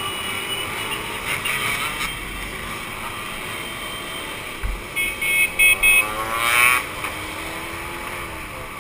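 Two-stroke motorcycle engines running and revving, their pitch rising and falling, with four short high beeps about five seconds in followed by a rising rev.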